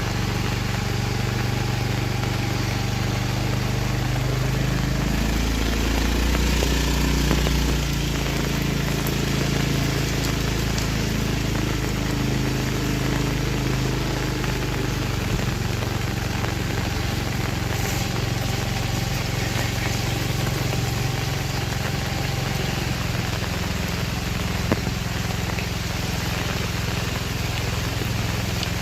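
A motor vehicle's engine running at idle, swelling and shifting in pitch for a few seconds about five seconds in, over a steady hiss of rain.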